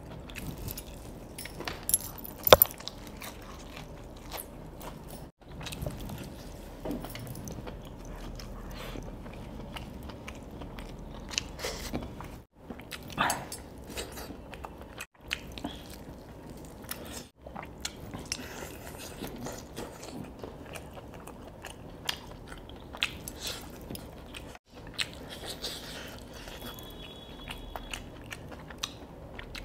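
A person biting and chewing crispy fried chicken, with irregular crunches and small clicks from the coating, the loudest a sharp crunch about two and a half seconds in.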